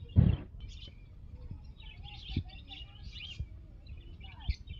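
Many small birds chirping and twittering over one another. A loud thump comes just after the start, with a few softer knocks later.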